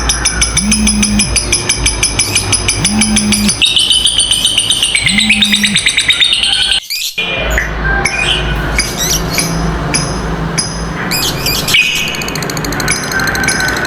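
Lovebirds giving the long, rapid rattling chatter called 'ngekek', one trill running into the next, with a brief break about seven seconds in.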